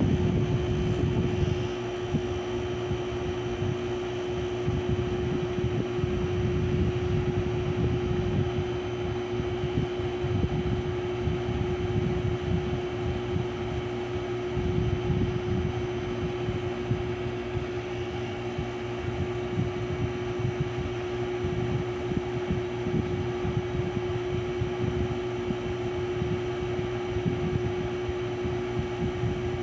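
Small Mabuhay Star ceiling fan running, its motor giving a steady hum over an uneven low whoosh of moving air.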